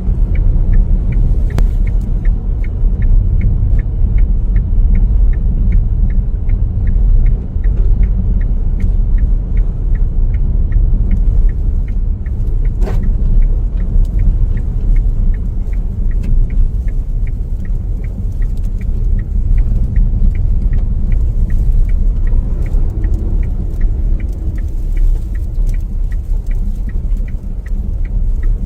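Steady low rumble of a car on the move, with a sharp, regular ticking about twice a second.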